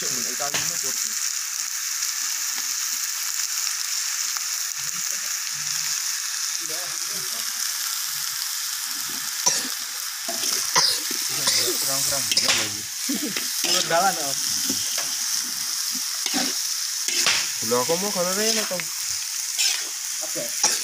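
Rabbit meat sizzling steadily as it is stir-fried in a wok, a spatula scraping and knocking against the pan now and then, more often in the second half.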